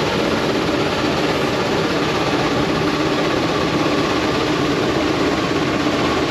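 A heavy engine running steadily at a constant speed.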